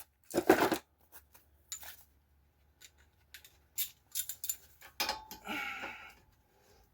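Scattered sharp metallic clicks from handling a socket and ratchet wrench, then about a second of rougher ratcheting noise as the wrench is worked on a brake caliper bolt.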